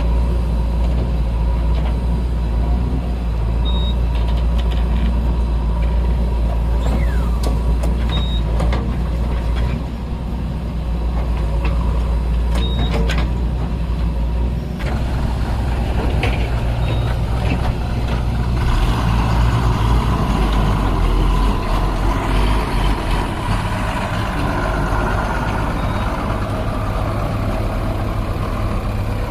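Heavy diesel engine running steadily, its note changing and getting busier about two-thirds of the way through. Short high beeps sound every few seconds.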